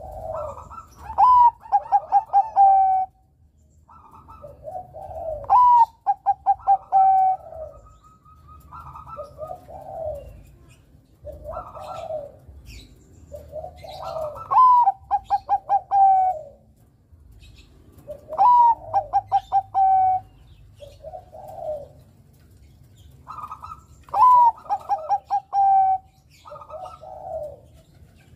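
Zebra dove (perkutut, Bangkok type) singing: repeated phrases, each a rising note followed by a quick run of short staccato coos, about every four to five seconds, with softer, lower coos in between.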